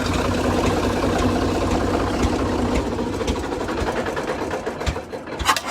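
A Caterpillar tractor's engine running steadily, then dying away over the last couple of seconds as it is shut off. Under it, and plain once it fades, is the slow, regular beat of the 1912 Rumely F's single-cylinder engine at 375 RPM.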